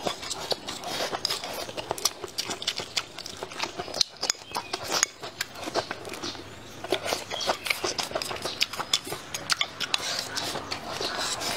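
Close-miked mouth sounds of eating: chewing a mouthful of rice and green chili peppers, a quick irregular run of wet clicks, smacks and crunches.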